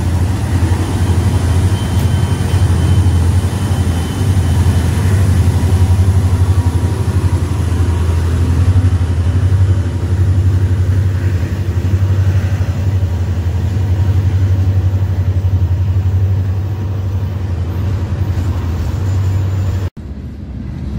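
A train passing close by: a loud, steady low rumble that cuts off suddenly near the end.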